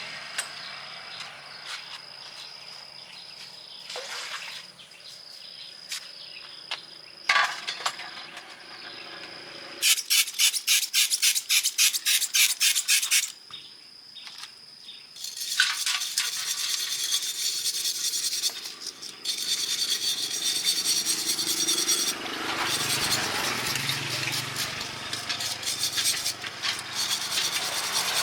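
Metalworking on a rusted truck chassis. A few scattered knocks come first, then a run of sharp repeated strokes at about four a second for some three seconds. From about halfway through, a steady scraping sound like abrasive rust removal takes over, with short pauses.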